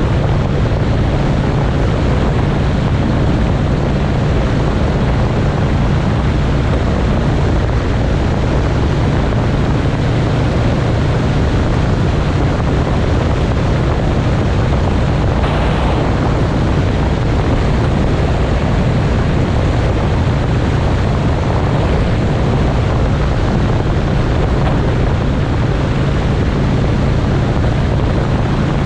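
Motorcycle engine running at a steady cruise, its drone holding an even pitch, under a steady rush of wind over the microphone. A brief louder burst of noise about halfway through.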